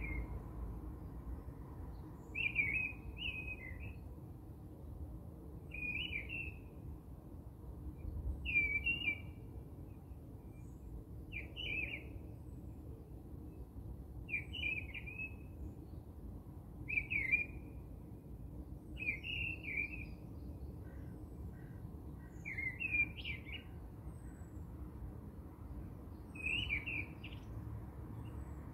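A bird chirping, a short call about every three seconds, over faint steady room noise.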